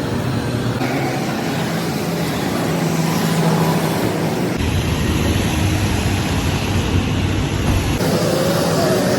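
Steady, loud mechanical noise with a low hum, changing abruptly about a second in, around the middle, and near the end.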